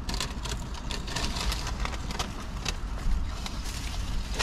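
Small scattered clicks and rustles of eating from take-out containers, over a steady low rumble.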